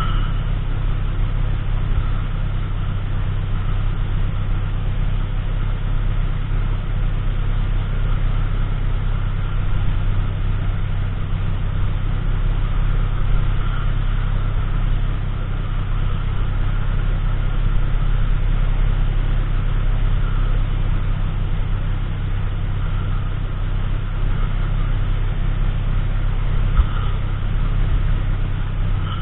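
Steady low rumble of a car, engine and road noise running evenly without change.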